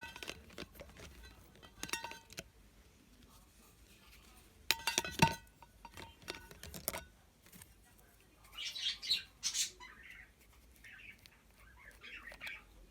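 Small objects being handled at close range: a series of sharp clicks, knocks and light clinks, the loudest about five seconds in, followed by rustling a few seconds later.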